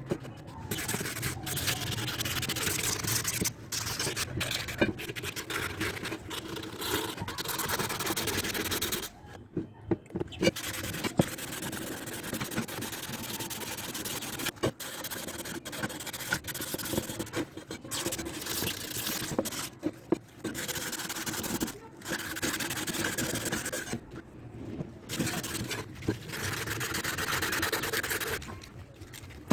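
Hand rubbing on the metal engine side cover of a Honda CD 70, scrubbing strokes with an abrasive or polishing material, in long runs broken by brief pauses.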